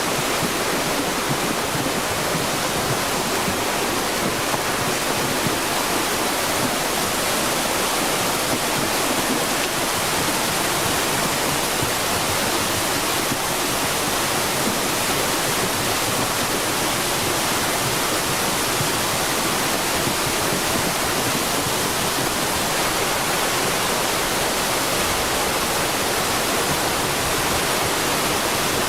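Floodwater torrent rushing steadily, a continuous even roar of fast-moving water.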